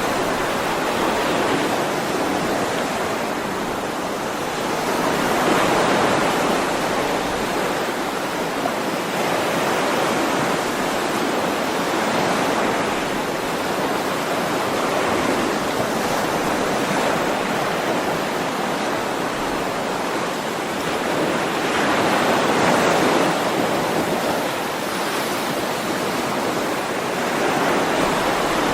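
Ocean waves in a continuous rush of surf, swelling louder and easing off again every several seconds as waves break and wash back.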